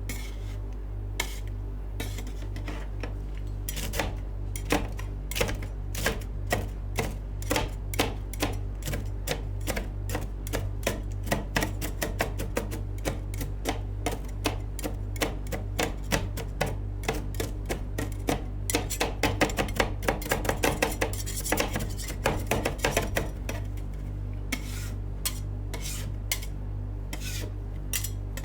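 Metal spatulas chopping and tapping on a frozen steel cold plate, the rapid chopping of rolled ice cream, a few sharp strikes a second with a faster flurry past the middle.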